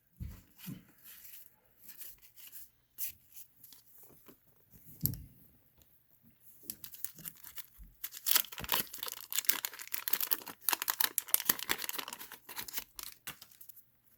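Scattered light clicks from cards being handled, then, from about eight seconds in, several seconds of dense crinkling and tearing of paper or wrapper packaging.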